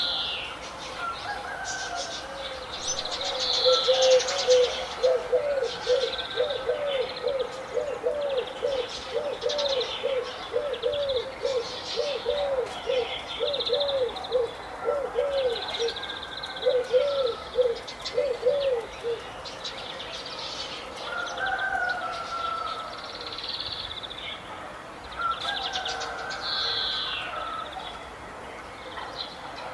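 Birds calling. A low hooting note repeats about twice a second for some fifteen seconds, over scattered higher chirps and short whistled phrases.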